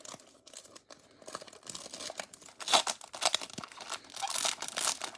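Foil trading-card pack wrapper crinkling and tearing in irregular bursts as it is opened by hand.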